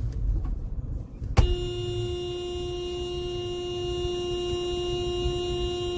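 Car horn blaring in one long, steady held note, starting with a sharp click about a second and a half in, over low road rumble.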